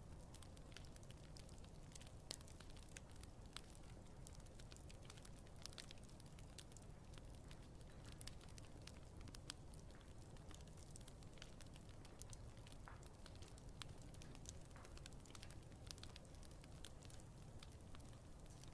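Wood campfire burning quietly, with scattered small crackles and pops over a faint low rumble.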